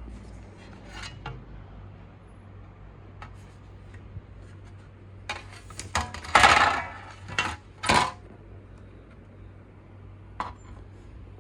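Small hard objects clicking and clattering on a work surface, with a quick run of knocks and a longer scrape about halfway through and one more click near the end. This is typical of tools and small parts being handled during laptop repair work.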